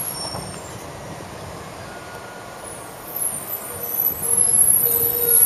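Tokaido Shinkansen electric train starting to pull out of the station: a low rumble that grows louder over the last two seconds, with a steady electric whine setting in about four seconds in.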